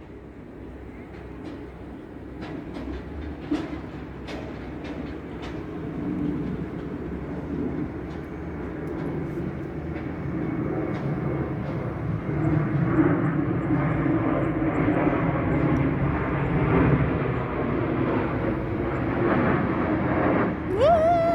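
Aircraft passing overhead, its engine rumble growing steadily louder as it approaches.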